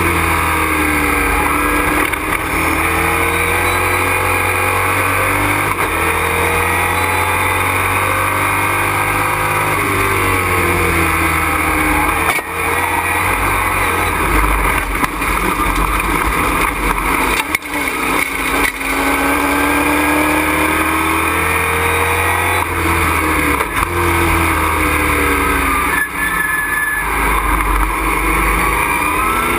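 Race truck's engine heard from inside the cockpit under hard driving, its pitch repeatedly climbing and falling back through the corners, with brief dips in sound at lifts or gear changes twice near the middle.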